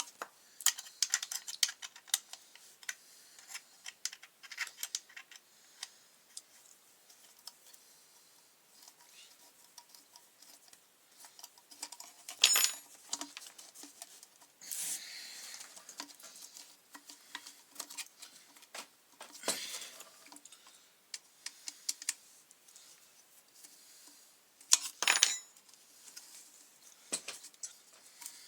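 Small plastic and metal parts and hand tools clicking, clinking and scraping as the fuel tank is taken off a McCulloch grass trimmer, with a few louder clatters about halfway and near the end.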